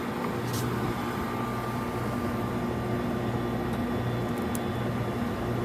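Walk-in freezer condensing unit running steadily, a compressor and fan hum, still in refrigeration and not yet switched into defrost. A couple of faint ticks from handling the wiring.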